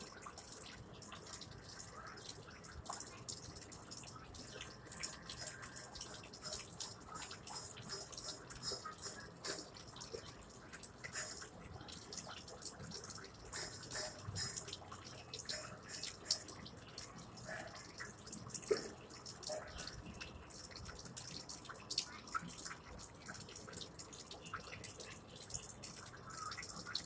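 Water dripping in quick, irregular drips over a faint steady hiss.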